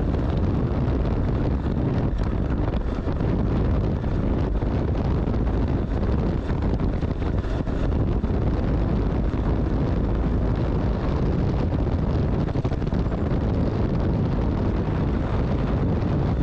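Small single-cylinder Yamaha dual-sport motorcycle under way, the engine running steadily under heavy wind rush on the microphone.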